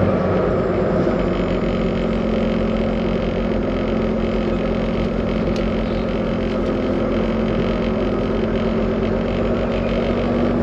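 2020 Volvo VNL 860 semi truck's diesel engine running steadily at low speed, a constant hum with a low rumble.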